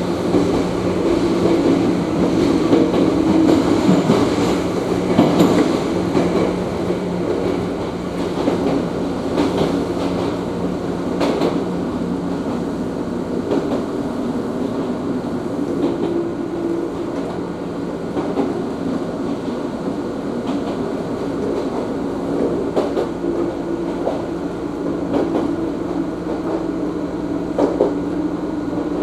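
An Ohmi Railway electric train heard from inside the car: a steady running hum, with now and then a sharp click of wheels passing over rail joints.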